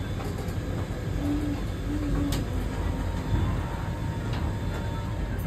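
Vande Bharat Express train running on the rails: a steady low rumble with a couple of light clicks.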